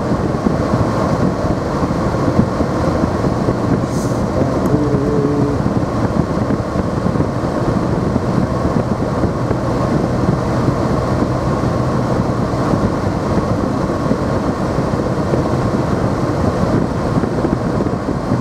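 Car driving on a snow-covered road, heard from inside the cabin: steady engine and tyre noise.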